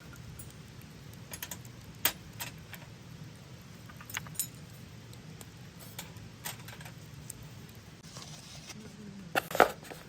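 Light metallic clinks and taps of cookware and utensils, scattered, with the loudest cluster near the end, over a low steady hum.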